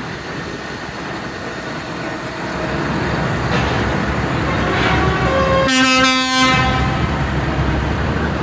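Tractor engines running as they pass, growing louder, with a horn blast of almost a second about six seconds in.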